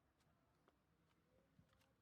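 Near silence: faint background hum with a few very faint ticks.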